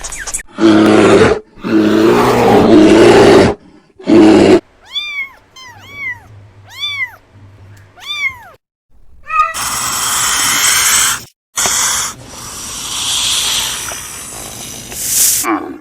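Animal call clips spliced one after another with abrupt cuts: a loud, harsh, noisy growling call, then several short cat meows, each rising then falling in pitch, then more rough, noisy calls.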